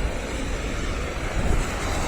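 Strong wind buffeting the microphone in uneven low rumbles, over a steady outdoor rush of noise.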